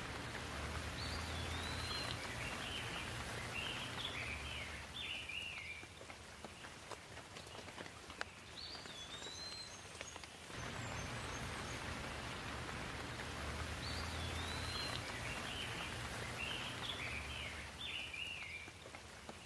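Steady rain with a low rumble beneath it, and a bird's chirping calls in two runs of a few seconds each, near the start and again in the second half. The rain and rumble ease for a few seconds in the middle.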